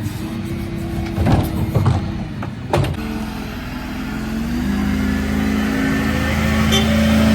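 Dennis Elite 6 refuse lorry's diesel engine running, with a few sharp clunks in the first three seconds. The engine note then steps up and grows louder toward the end.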